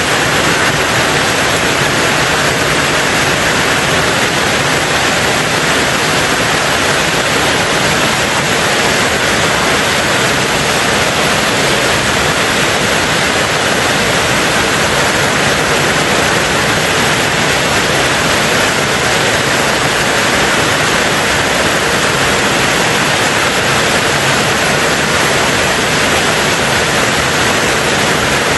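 Steady rain on a tin roof: a loud, even, dense hiss with no single drops standing out.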